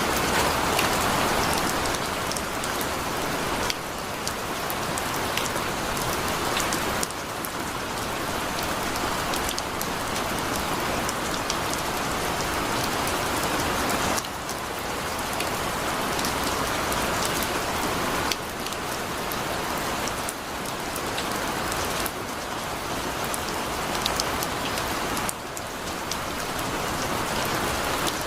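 Heavy rain falling steadily, a dense hiss of drops hitting surfaces, with small sudden shifts in loudness every few seconds.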